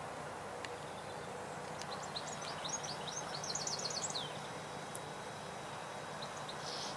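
A small songbird gives a quick run of rising, high chirps between about two and four seconds in, over steady outdoor background noise with a faint low hum.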